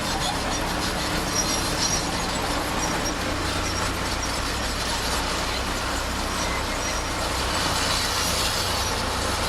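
Bulldozer's diesel engine running steadily under load, with the steel tracks clanking and squealing as the machine works. The low engine note gets a little heavier from about three seconds in.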